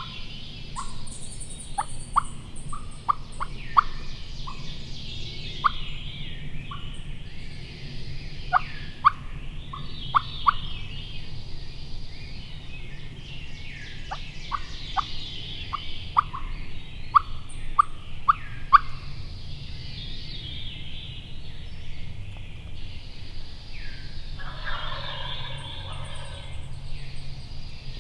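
Wild turkey gobbler gobbling over and over, a tom still on his roost in spring. Short, sharp chip notes come between the gobbles, loudest in the first two-thirds.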